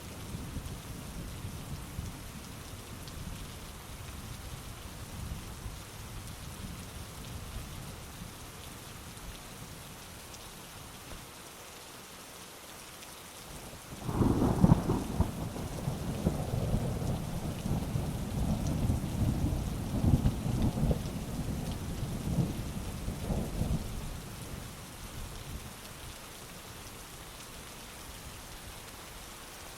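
Heavy rain falling steadily, with a thunderclap breaking suddenly about halfway through and rumbling on for about ten seconds before fading back under the rain.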